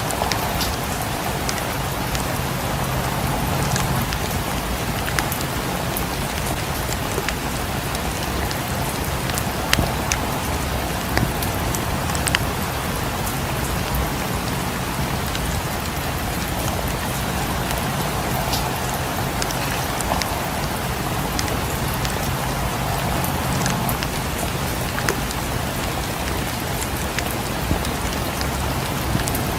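Steady rain falling against windows, mixed with the scattered sharp pops of a fireplace crackling; a few louder pops come about ten to twelve seconds in.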